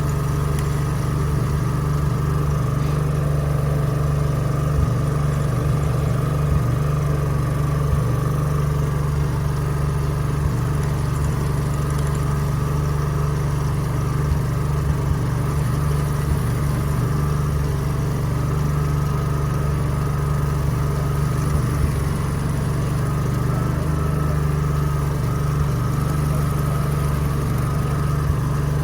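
Petrol generator engine running at a steady speed, a loud continuous hum with no change in pitch.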